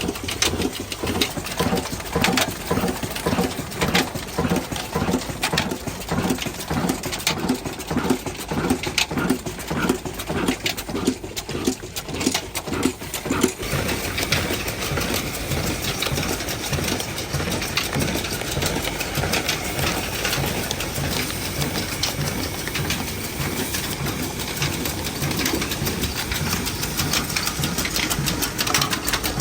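Old 22 hp black diesel engine running with an even, repeating beat. About halfway through the sound becomes steadier and denser, with more hiss.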